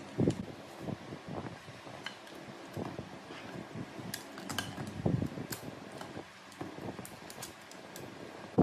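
Metal parts clinking and knocking as they are handled and set down, with a few heavier thuds, over a steady faint background hum.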